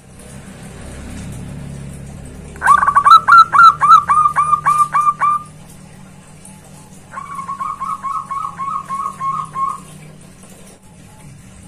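Zebra dove (perkutut) cooing song: a loud run of quick, evenly repeated notes, about four a second, then a quieter run of the same notes a couple of seconds later.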